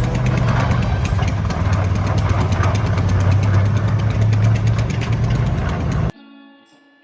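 A vehicle engine idling with a steady low rumble and an even, regular pulse. It cuts off abruptly about six seconds in, leaving quiet guitar music.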